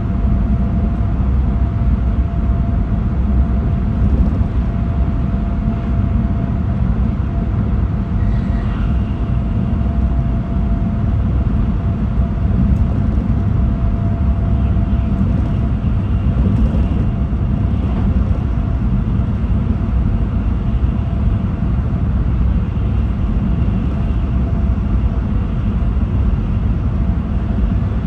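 Running sound of an E6 series Shinkansen with Hitachi IGBT traction inverters, heard from inside the train while it runs at a steady speed. There is an even low rumble from the running gear, with a faint steady whine above it.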